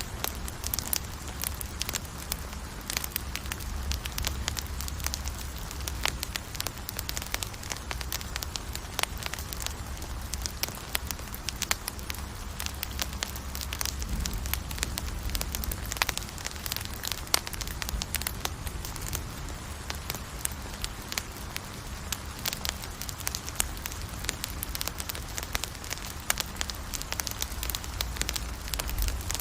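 Campfire crackling and popping: many small, irregular snaps over a steady low rumble.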